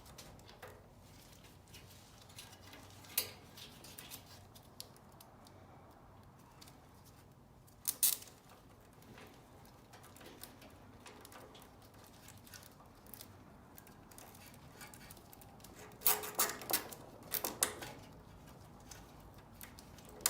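Scattered clicks and light rattles of hands working parts and wiring, over a low steady background: a click about three seconds in, a sharper one near eight seconds, and a cluster of clicks and rattles around sixteen to seventeen seconds.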